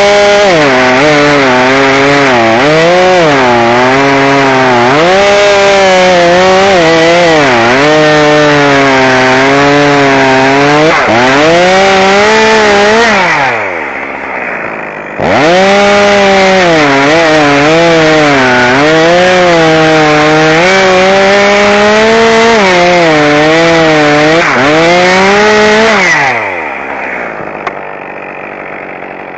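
Chainsaw at full throttle cutting wood, its pitch sagging and picking up again as the chain loads in the cut. It runs in two long cuts; between them and near the end the throttle is released and the engine drops back to idle.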